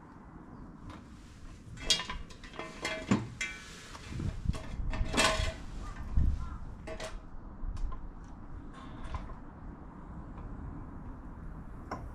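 Metal tools and parts being handled: a series of clinks and clanks, several with a short metallic ring, the loudest about two, three and five seconds in, among rustling handling noise.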